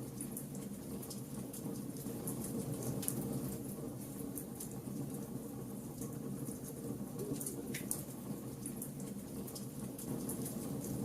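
Wood fire burning: a steady low rush of flames with irregular sharp crackles and pops from the burning wood.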